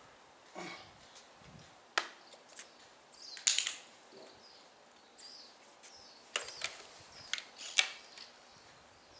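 Scattered sharp clicks and light knocks from handling hard parts of an engine RC car, with a cluster of sharper clicks near the end; the engine is not running.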